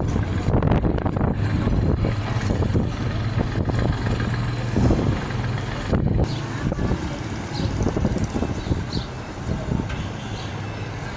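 Dump truck engine running steadily with a low hum and irregular rattling, easing slightly in level near the end.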